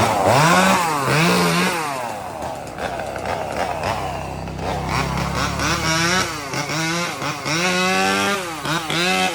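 Two-stroke chainsaw revved in repeated throttle bursts, its pitch rising to a high whine and dropping back each time. There are two bursts at the start, then a few seconds running lower, then four quick bursts near the end.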